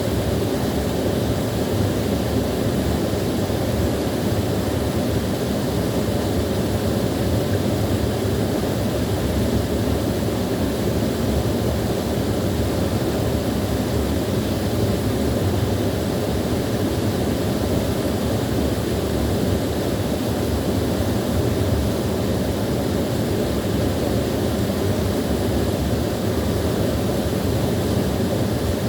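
Small waterfall: a steady, even rush of falling water, heaviest in its low rumble.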